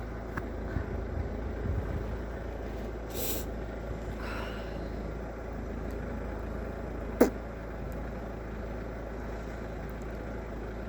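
Steady road traffic noise, with one short sharp click about seven seconds in.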